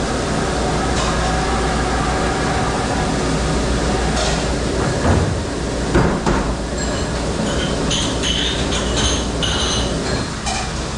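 Steady drone of a commercial dishwashing machine running. Dishes and metal knock a couple of times about halfway through, then clatter and clink through the later seconds.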